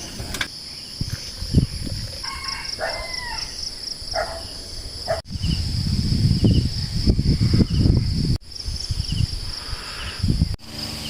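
Insects, crickets by their sound, chirping steadily in a shrill, rapidly pulsing trill, with a few short bird calls about two to four seconds in. A low rumbling noise joins from about halfway, and the sound drops out briefly three times.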